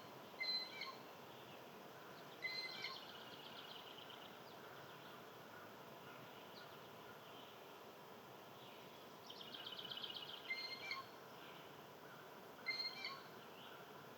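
Wild songbirds calling over faint outdoor background noise: a short chirp four times, and twice a rapid, high trill lasting about a second.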